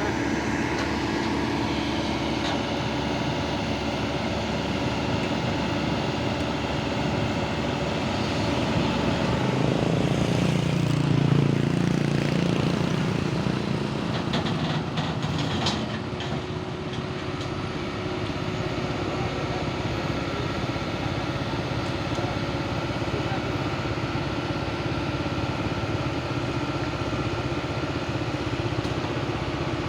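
Kobelco excavator's diesel engine running steadily, working harder and louder about ten seconds in and easing back a few seconds later, with a few short knocks around the middle.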